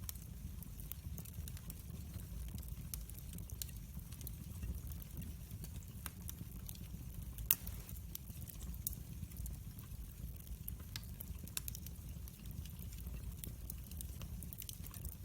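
Wood fire burning in a fireplace, with a steady low rumble and scattered sharp crackles. One louder pop comes about seven and a half seconds in.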